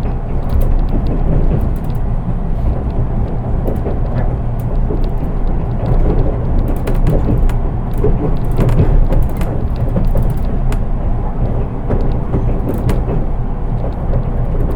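Interior running noise of a JR East 183 series electric train, heard in its unpowered driving trailer car (KuHa 183): a steady low rumble with scattered clicks and knocks from the wheels and car body, and no motor whine.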